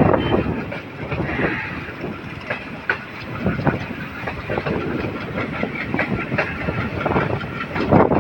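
Moving passenger train: a steady rumble and rattle with repeated clacks of the wheels over rail joints, louder briefly at the start and again near the end.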